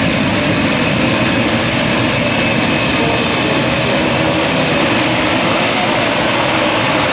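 Engines of several grasstrack racing motorcycles running together, loud and steady.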